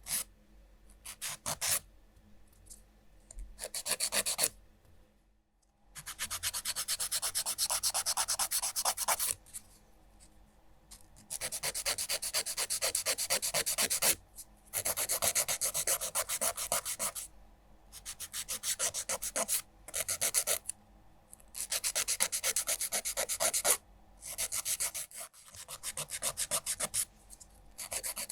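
Nail file rasping rapidly back and forth across fingernails, in runs of fast strokes lasting one to three seconds with short pauses between them.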